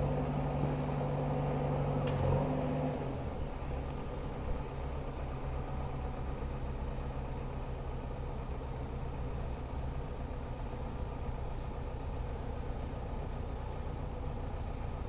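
Heavy diesel engine running at raised revs, then dropping back about two and a half seconds in to a steady, even idle.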